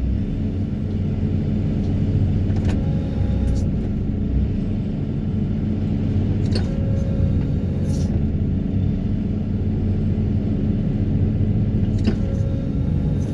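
Excavator's diesel engine and hydraulics running steadily with a low rumble, broken by four sharp clicks, three of them followed by a brief whine.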